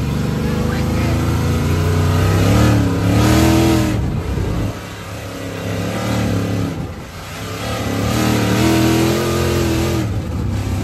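Dirt bike engine revving, its pitch rising and holding twice, about two seconds in and again about eight seconds in, then dropping back.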